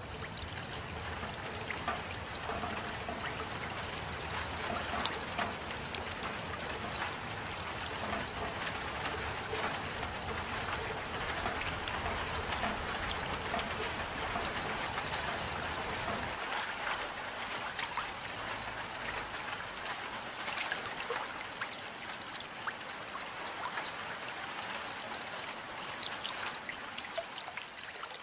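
Steady rain falling, with water trickling and scattered single drops ticking. A low rumble underneath drops away a little past halfway.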